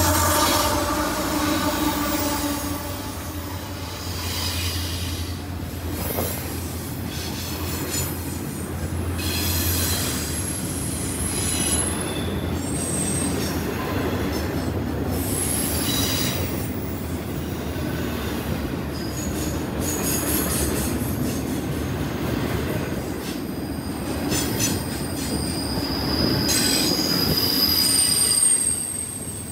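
A freight train rolling past with its steady rumble, and its wheels squealing in high-pitched squeals that come and go. A low engine hum at the start fades out about ten seconds in.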